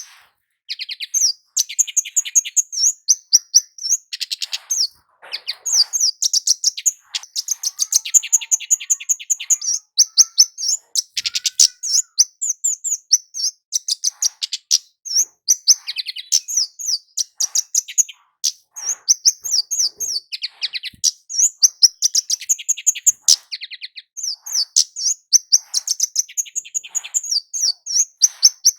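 Kemade jawa, a flowerpecker, singing in rapid strings of high, thin chirps and ticks. The phrases last one to a few seconds, with short breaks between them.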